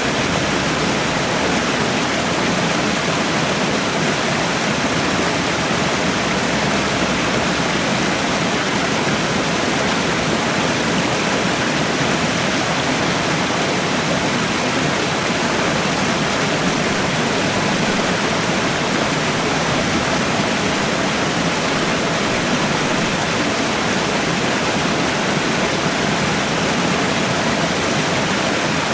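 Waterfall: water falling and rushing in a steady, unbroken roar-like hiss.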